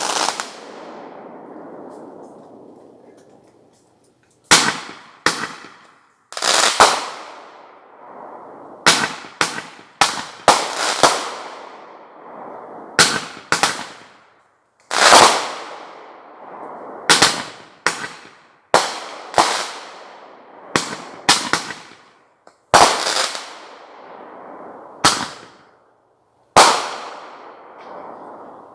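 Aerial fireworks bursting overhead: a series of about twenty sharp bangs at uneven intervals, some in quick pairs, each followed by a long rumbling echo that dies away.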